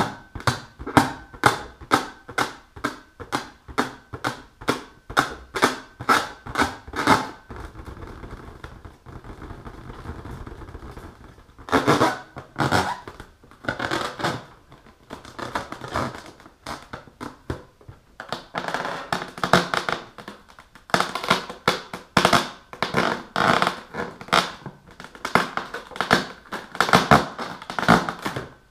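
Long fingernails tapping and scratching on an inflated rubber balloon. Quick taps come about three or four a second, then there is a softer stretch of rubbing, then a denser run of scratching and tapping.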